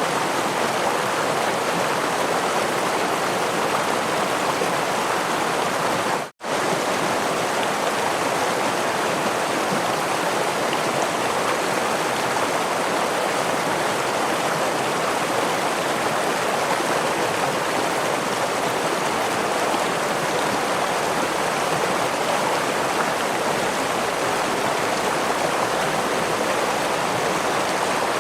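Stream water rushing steadily over a small waterfall, a continuous even wash of sound. It cuts out completely for a split second about six seconds in, then carries on unchanged.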